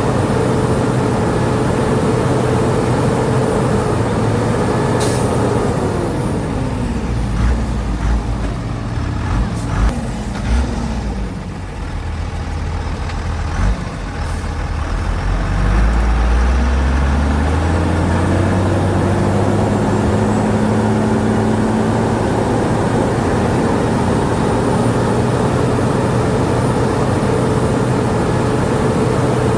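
Diesel engine of a Shantui DH17 bulldozer running under load. About six seconds in its note sinks as the engine slows, with heavy low rumbling and a few knocks, then it climbs back to full speed from about fifteen seconds in.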